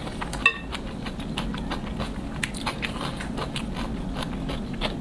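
Close-miked chewing of a mouthful of cold noodles, with many small wet clicks and smacks at an irregular pace. A brief ringing tap comes about half a second in.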